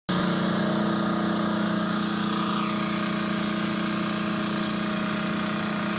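Vehicle engine running with a steady hum, heard from inside the car as it drives.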